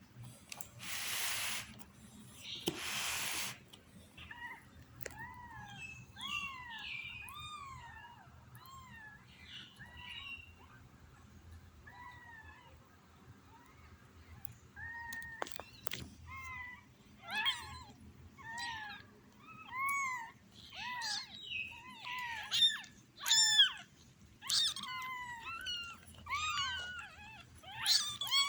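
Newborn kittens mewing: many short, high, rising-and-falling cries, sparse at first and coming thick and fast in the second half. Two short bursts of noise come near the start.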